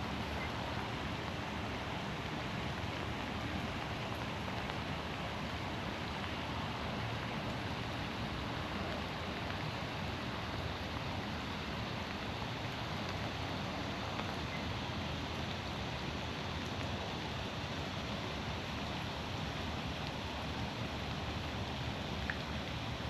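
Steady rain falling through forest trees and onto the wet ground, an even hiss with no single drops or events standing out.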